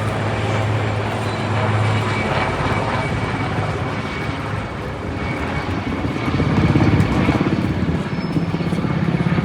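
Helicopter rotor and engine noise: a steady low hum with a fast rhythmic rotor chop that shifts in pitch, loudest about two-thirds of the way through.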